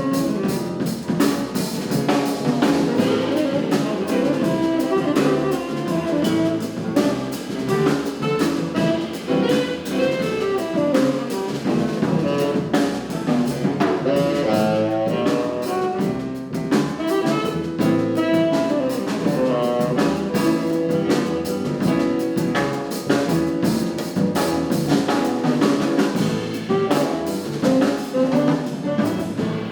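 Live jazz quartet of saxophone, piano, double bass and drum kit playing, with steady cymbal and drum strokes under the melody.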